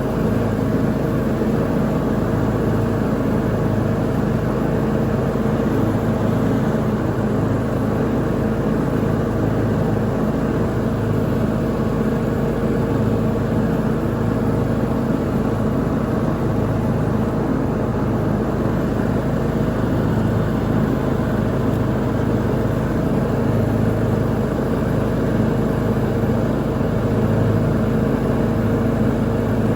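Lawn mower engine running steadily at a constant speed while mowing, a continuous even drone.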